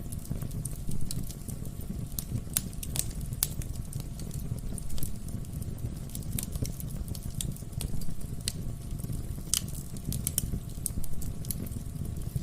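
Wood fire crackling in a fireplace: irregular sharp snaps and pops over a steady low rush of the burning logs.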